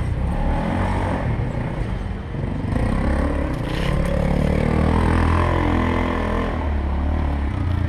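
4x4 ATV engine running under throttle, its pitch climbing about a third of the way in and then holding steady.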